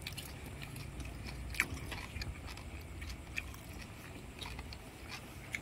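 A person chewing a mouthful of noodle soup, with a few small, sharp clicks scattered through it.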